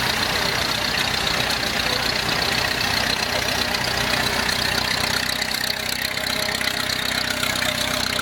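Vintage tractor engine running steadily at idle, a low even chugging hum.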